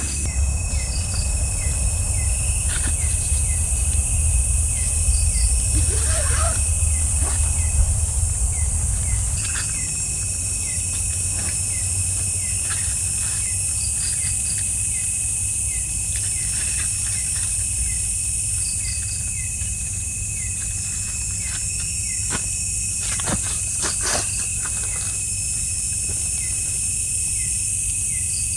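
Night insects in a forest: a steady high-pitched shrill drone, with crickets chirping in a regular pattern beneath it. A low rumble runs through roughly the first ten seconds, and a few sharp clicks come near the end.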